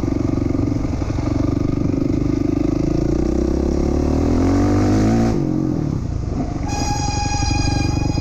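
2007 Honda CRF450R's four-stroke single-cylinder engine running under throttle, rising in pitch about three seconds in and dropping off sharply a little past five seconds. About a second and a half later the front brake squeals with a steady high-pitched tone for about a second, a squeak the rider can't account for.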